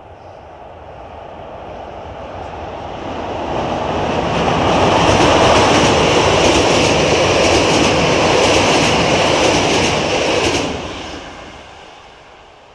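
Passenger train crossing a steel truss railway bridge. Its noise grows louder as it approaches, then holds loud for about six seconds with quick wheel clicks over the rail joints, and drops away sharply as the last car clears before fading.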